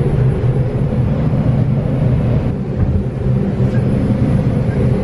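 Steady low rumble of a moving passenger train heard from inside the car.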